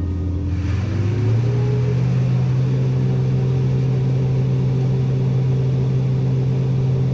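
Vehicle engine running with a steady drone. Its pitch rises over the first second or so, as if speeding up, and then holds steady.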